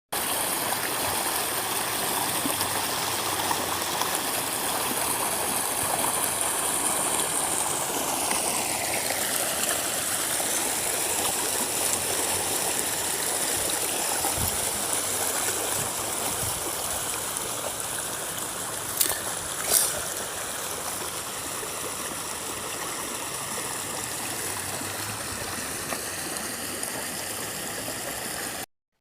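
A stream running over rocks, a steady rush of water, with two short knocks about two-thirds of the way through.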